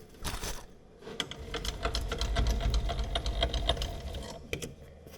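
Metal lathe running with a rapid, rattling mechanical clatter, which builds about a second in and fades near the end. It comes from an interrupted cut on the plasma-cut mild-steel blank, the kind of cut that chipped the tool's insert.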